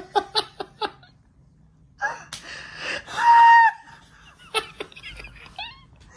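A man and a woman laughing uncontrollably. Quick bursts of laughter give way to a silent pause of about a second, then wheezing gasps for breath and a loud high-pitched squeal about three seconds in, followed by short squeaky laughs.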